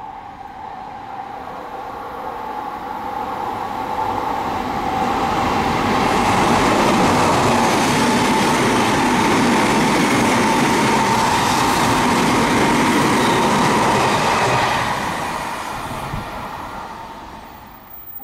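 Odakyu express electric train passing through the station at speed without stopping. Wheels and motors grow louder over about six seconds, run loud for about eight seconds as the cars go by, then fade away, with a steady high tone under it.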